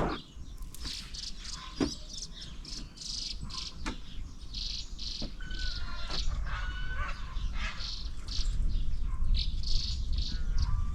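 Several birds chirping and calling in quick repeated high notes, with some short whistled phrases in the middle. A few sharp clicks come in the first half, and a low rumble grows louder toward the end.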